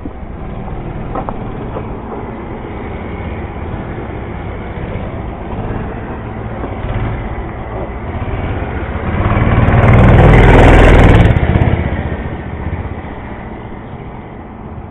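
Mini bike's small engine running as it is ridden, getting steadily louder and peaking about ten seconds in, then fading away.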